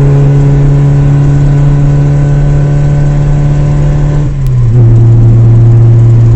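Car engine running hard at steady revs, very loud, its pitch dropping to a lower steady note about four seconds in as the revs fall.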